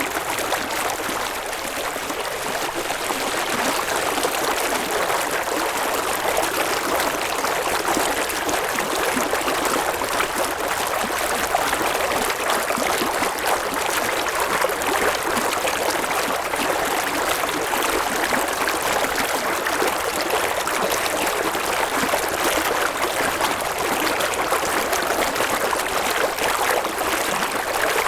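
River water flowing and babbling over rocks in a steady rush.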